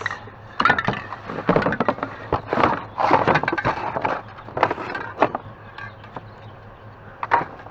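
Irregular knocking and clattering, a rapid run of sharp knocks over the first five seconds or so, as the locked curio cabinet is handled. Then it goes quieter.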